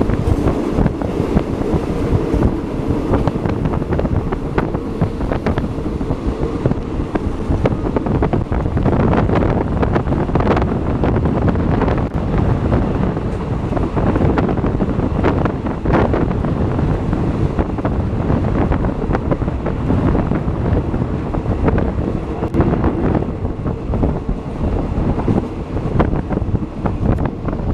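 A passing train, with a steady low rumble and clatter from the wheels, heavily buffeted by wind on the microphone.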